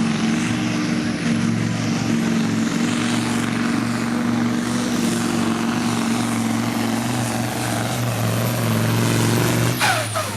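Supersport pulling truck's diesel engine at full throttle hauling the pulling sled: a loud, steady, heavy engine note with a thin high whine over it. The sound falls away abruptly near the end.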